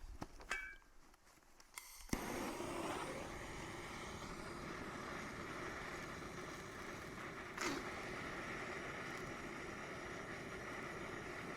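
A few small clicks, then about two seconds in a brush bonfire suddenly flares up after being doused with accelerant and burns with a steady rushing of flames.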